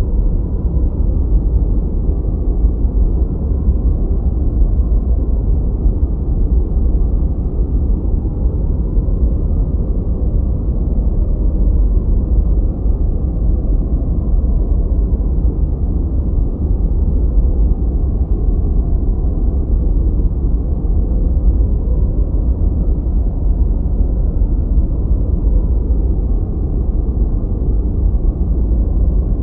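Continuous steady noise played as a focus soundscape, deep and muffled: a dark rumble with no high hiss, unchanging throughout.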